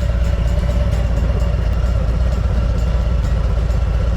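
Harley-Davidson Road King's V-twin engine running steadily at road speed under heavy wind rumble, with no change in pitch or load.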